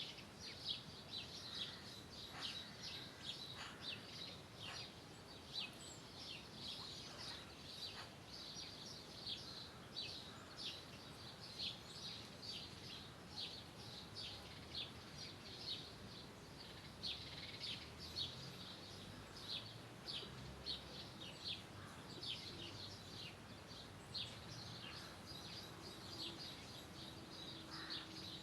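Birds chirping: a steady stream of short, quick, high chirps, several a second, over a faint background hiss.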